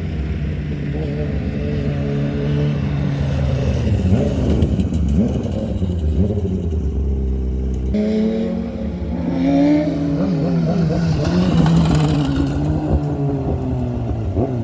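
High-displacement racing motorcycle engines warming up, idling and being revved so the pitch rises and falls; the engine sound changes abruptly about eight seconds in.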